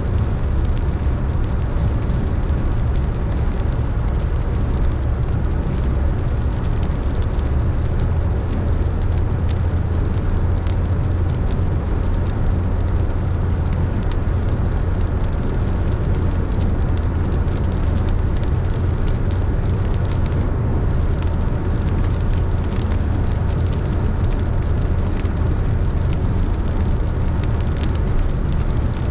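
Car driving in rain: a steady low road rumble and tyre noise, with many small raindrop ticks over it.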